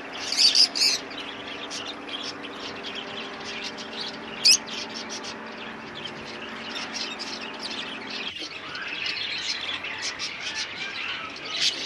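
Many caged birds chirping and calling together, with a few louder, sharper calls standing out: near the start, about four and a half seconds in, and near the end. A steady low hum runs under them and stops abruptly about eight seconds in.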